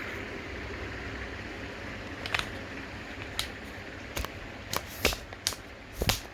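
Irregular sharp clicks and clacks of metal parts and hand tools being handled, about seven in the last four seconds, over a steady low hiss.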